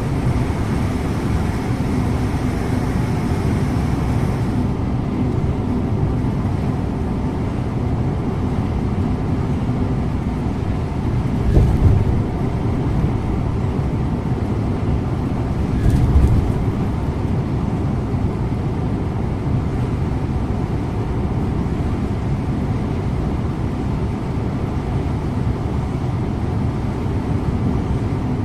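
Scania InterLink bus driving at steady speed, its engine and tyre noise a continuous low rumble from the driver's seat. A higher whine fades out about four seconds in, and two short low thumps come about twelve and sixteen seconds in, as from bumps in the road.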